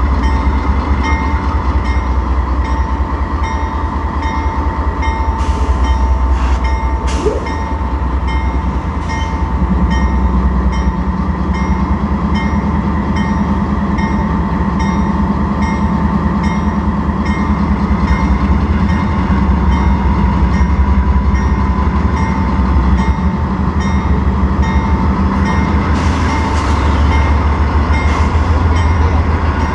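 Norfolk Southern diesel-electric locomotives running as a heavy intermodal freight train gets under way, a loud steady rumble with a constant whine. The drone deepens about ten seconds in, and there are a few brief high hisses around six to nine seconds in and again near the end.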